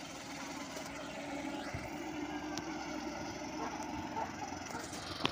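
Early brass-era veteran car driving slowly on a gravel path, its engine running steadily.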